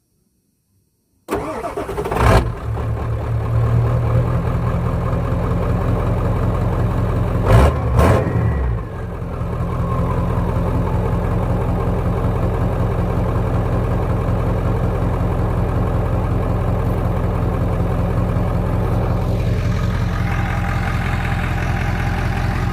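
Ford 7.3 Powerstroke turbodiesel V8 with a straight-piped exhaust cold-starting. Near silence, then it fires about a second in and comes in loud at once, with two brief louder surges, around two and around eight seconds in, before it settles into a steady idle.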